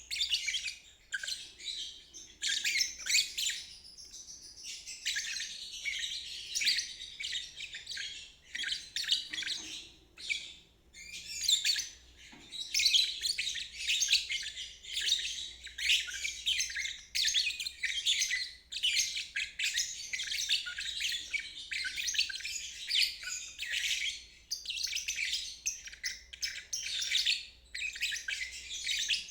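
Lovebird ngeriwik song: rapid, continuous high-pitched chattering and chirping in long bouts, broken by brief pauses about 4, 10 and 12 seconds in.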